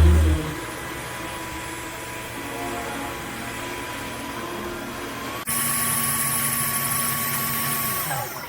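Dreame H12 Pro wet-dry vacuum running its self-cleaning cycle: a steady motor hum with a whine. About five and a half seconds in it steps up louder, then winds down with falling pitch near the end as the cycle completes.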